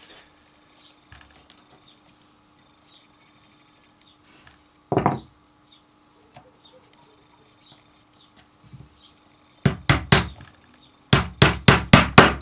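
Small hammer tapping gimp nails (small tacks) into a wooden beehive frame. There is one tap about halfway, three quick taps a little later, then a rapid run of about six taps near the end.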